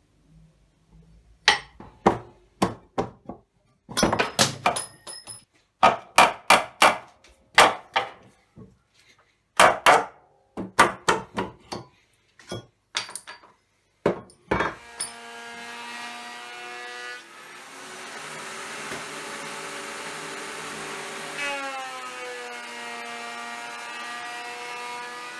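Wood worked by hand in quick groups of short, rasping strokes, like a hand saw or plane. About fifteen seconds in, an electric power tool starts and runs steadily with a whine. The whine turns into a rougher hiss for a few seconds, then comes back and dips in pitch.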